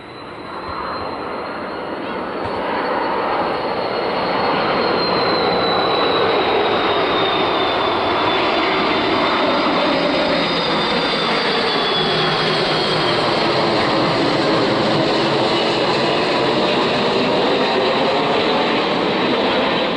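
Airbus A330 twin-engine jet airliner on landing approach passing close by: the jet engine noise builds over the first few seconds, then holds loud and steady, with a high whine that slides slowly lower as it passes.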